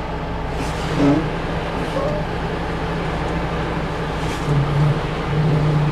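Semi truck's diesel engine running at low revs while the tractor-trailer is backed into a loading dock, a steady low hum that grows briefly louder twice near the end.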